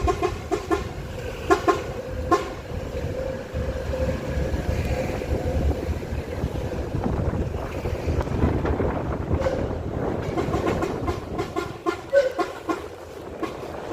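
A vehicle running with a steady low rumble, with bursts of loose rattling and knocking, heaviest near the start and again near the end.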